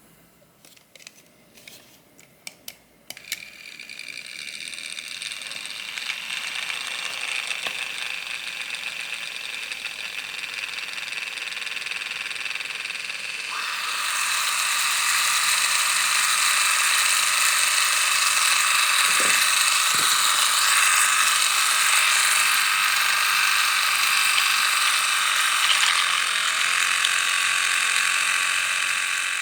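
A few clicks, then a miniature toy blender's small motor starts and runs with a rattling whir, blending a tiny chocolate-Nutella milkshake. It gets louder about fourteen seconds in and keeps running steadily.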